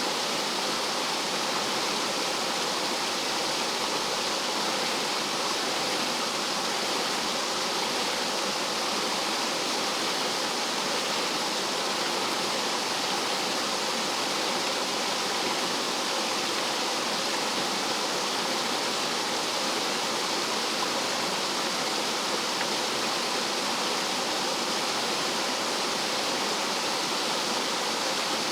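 Rough mountain-stream water tumbling over rocks like a small waterfall, a steady, unbroken rush of water.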